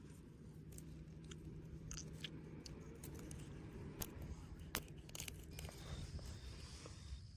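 A knife cutting through a small fish while filleting it, an irregular run of crunching clicks and scrapes. Near the end an insect starts a steady high trill with evenly spaced chirps.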